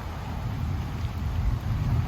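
Wind rumbling on the microphone in uneven gusts, with a fainter steady hiss above it.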